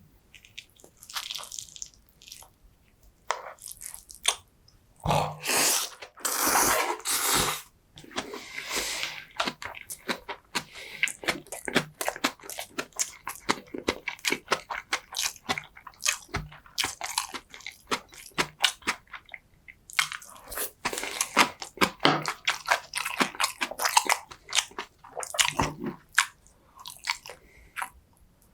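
Close-miked eating sounds: biting and chewing in a fast, irregular run of short clicks and smacks. A few louder, longer bursts come about five to seven seconds in.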